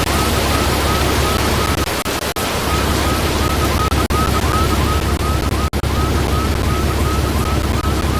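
Loud, steady rushing wind buffeting the microphone during a tornado intercept, with brief dropouts. A rapid series of faint short beeps, about three a second, runs underneath.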